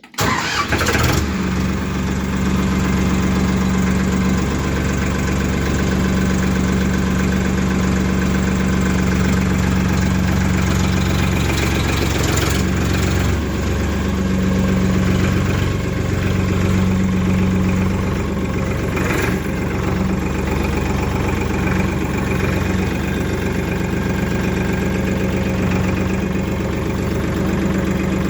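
Diesel tractor engine idling steadily, a constant low hum at a loud, even level.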